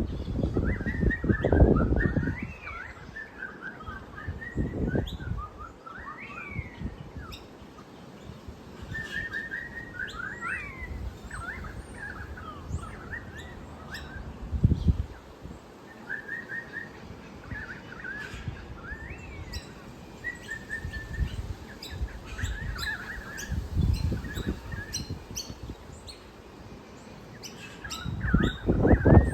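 Small birds chirping and twittering, many short repeated calls and quick trills overlapping. Low rumbles break in near the start, a couple of times in the middle, and near the end.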